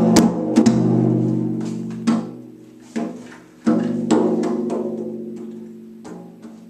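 A pitched drum struck by hand several times at an uneven pace, each stroke ringing with a clear note that slowly dies away.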